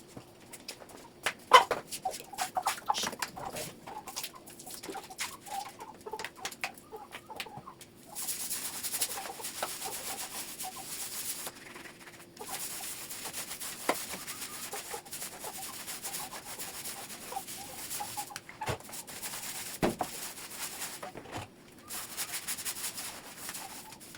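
Kitchen cleaning noises: a steady rubbing hiss in long stretches, with scattered knocks and clatter.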